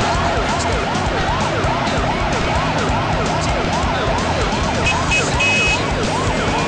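Siren yelping in quick rising-and-falling sweeps, about two to three a second, over a dense low rumble. A few short high beeps come about five seconds in.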